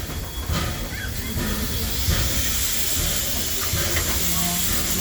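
Steam locomotive letting off steam: a steady hiss that swells after about a second and holds, over a low rumble.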